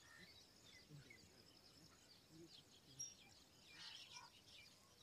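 Near silence outdoors, with faint bird chirps now and then.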